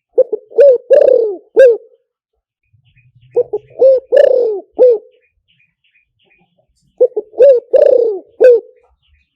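Spotted dove cooing: three phrases of several low coos each, about three seconds apart. It is the call of a decoy dove, used to lure wild spotted doves.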